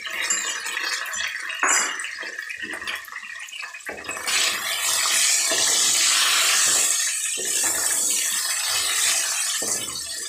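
Chicken and ginger-garlic paste sizzling in hot oil in a karahi, stirred with a wooden spatula that knocks against the pan. The sizzle grows louder about four seconds in and stays loud.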